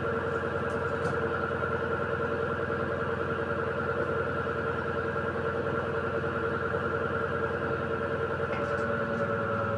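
Electrolux Essential Care LED14 washing machine running: a steady motor hum with a constant whine on top.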